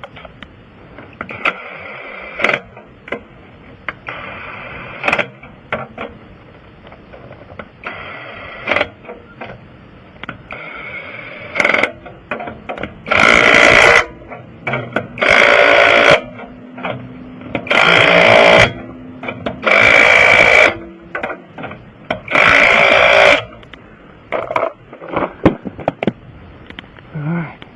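Impact wrench running in short bursts of about a second: a few lighter bursts, then five loud ones about two and a half seconds apart, typical of lug nuts being run down and tightened one after another on a wheel.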